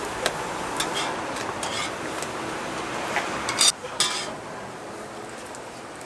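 Jjijim (Korean pan-fried pancakes) frying in oil with a steady sizzle, while metal utensils clink against the pan a few times. The loudest clatter comes about three and a half seconds in, and the sizzle grows fainter soon after.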